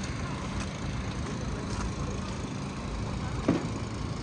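Steady city street noise with a low rumble of traffic and engines, and a single short knock about three and a half seconds in.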